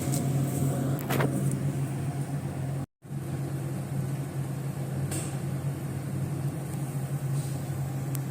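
A steady low hum with a few faint clicks, breaking off into silence for a moment about three seconds in.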